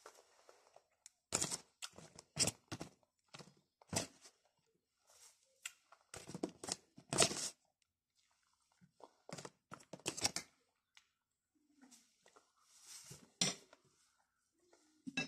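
Close-up chewing and crunching of a fresh salad of leafy greens and cucumber, in irregular bites.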